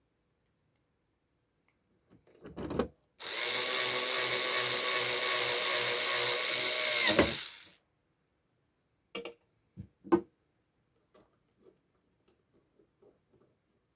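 Electric screwdriver motor running steadily for about four seconds, then slowing and stopping. A few short knocks before and after it.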